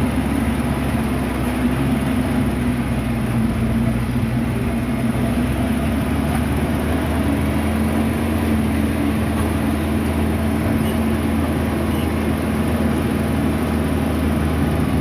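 Steady low engine hum of a moving vehicle, its pitch shifting slightly now and then.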